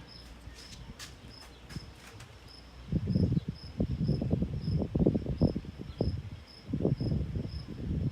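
Crickets chirping steadily, about two chirps a second. From about three seconds in, irregular low thumps and rumbling, louder than the crickets, run to the end.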